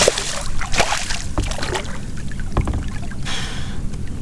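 Water splashing and sloshing beside a kayak, with scattered knocks and clicks against the hull, as a large speckled trout is brought alongside. A brief splash comes a little past three seconds in.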